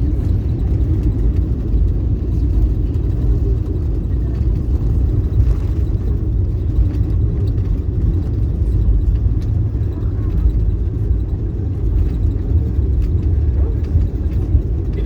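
Steady low rumble of a jet airliner's cabin during landing or rollout.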